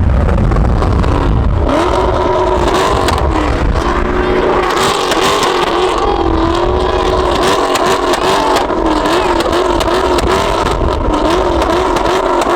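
Performance car engines revving hard, their pitch rising and falling again and again. A deep rumble is heard for the first couple of seconds.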